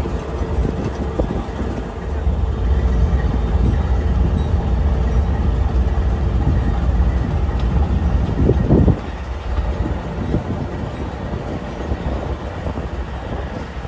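A train moving through a rail yard: a steady low rumble that eases off about nine seconds in, just after a brief louder noise.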